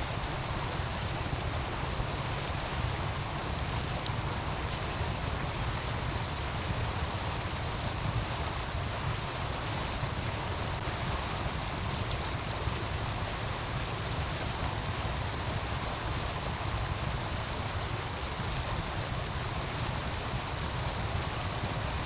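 Wood fire crackling with scattered sharp pops over the steady rushing of a meltwater stream, with a constant low rumble underneath.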